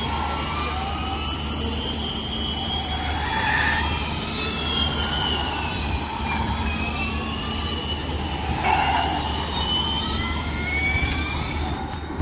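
Formula E electric race cars whining at speed. Several high-pitched whines overlap, rising and falling in pitch as the cars accelerate and slow past.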